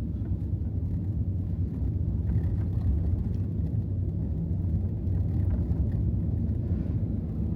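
Steady low rumble of a 2024 Ram TRX pickup driving on a snowy, icy road, heard from inside the cab: its supercharged V8 engine and tyre noise.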